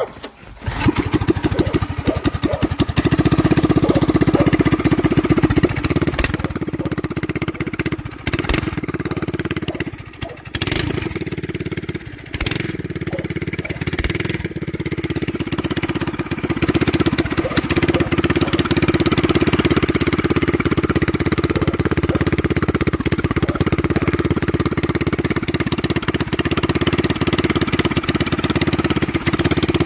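Predator 212 single-cylinder four-stroke go-kart engine fitted with an aftermarket turn-down exhaust, starting about half a second in and then running loud and steady. It dips briefly twice, around ten and twelve seconds in.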